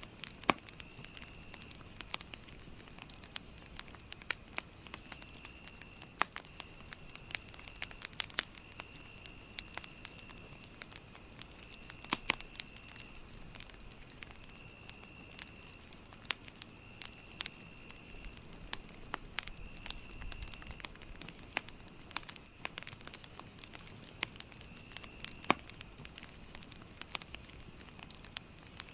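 Campfire crackling, with sharp irregular pops and snaps throughout. Behind it run insect calls: a steady high drone, a high chirp pulsing about three times a second, and a lower trill that comes and goes in spells of about a second.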